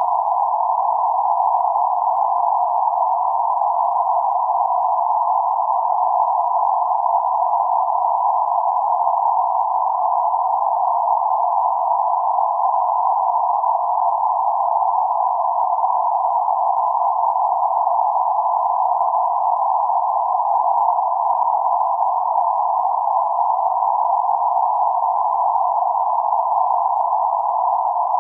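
Steady band-limited noise centred around 848 Hz: an even hiss confined to roughly 500 Hz to 1.5 kHz, with nothing above or below, unchanging throughout.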